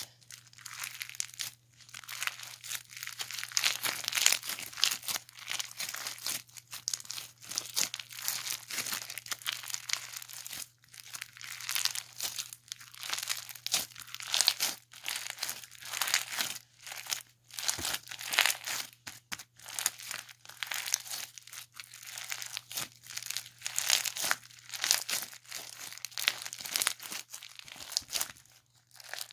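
Slime being squished and stretched by hand, a dense crackling and popping that comes in bursts with short pauses between them.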